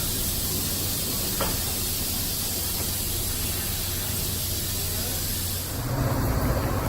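Steady hiss with a low hum from a train at a station platform. About six seconds in, a louder low rumble comes in as train noise builds.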